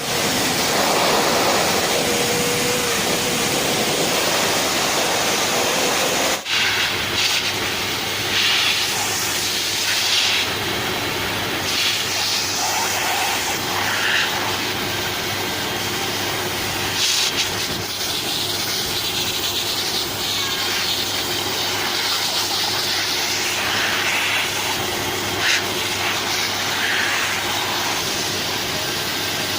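Hair dryer blowing steadily: a constant loud rushing hiss with a faint low hum, broken off for an instant about six seconds in.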